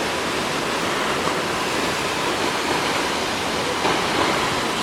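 Waterfall, a steady, full rushing of falling water.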